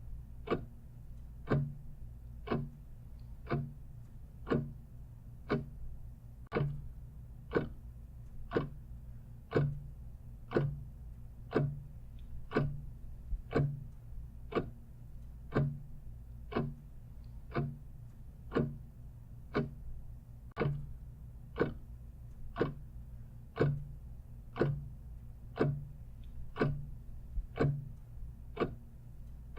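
Clock ticking steadily, about once a second, over a faint low hum.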